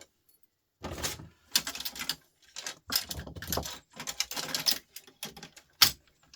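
Small metal parts and hand tools clicking and clattering as a record player is taken apart for scrap: irregular knocks and rattles that start about a second in, with one sharp, loud click near the end.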